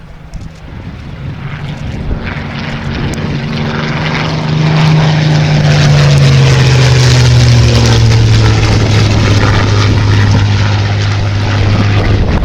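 Spitfire's Rolls-Royce Merlin V12 engine growing louder as the aircraft approaches, then passing by with its engine note dropping in pitch over several seconds, from about five seconds in.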